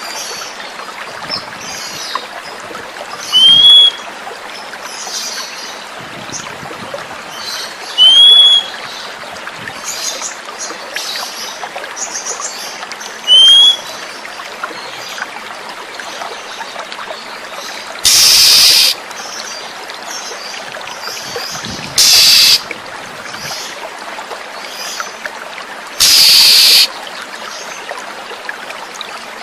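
Oriental magpie-robin calls over steadily running water: short arched whistles roughly every five seconds, then three louder harsh rasping calls in the second half. This is a lure recording meant to draw a caged magpie-robin into song.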